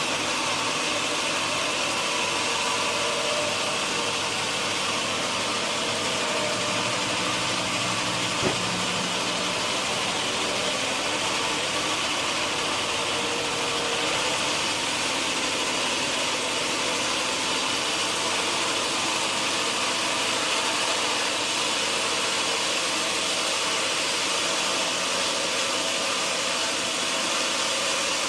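Sawmill machinery running steadily with an even mechanical noise, and a single sharp knock about eight seconds in.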